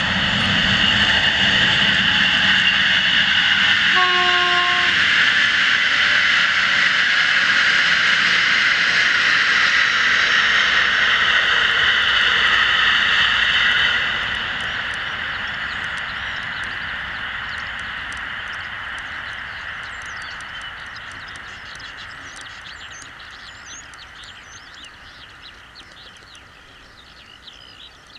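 Electric locomotive-hauled passenger train passing close by, the wheels rumbling on the rails, with one short horn blast about four seconds in. About halfway through the level drops suddenly, and then the train's noise fades steadily as it runs away.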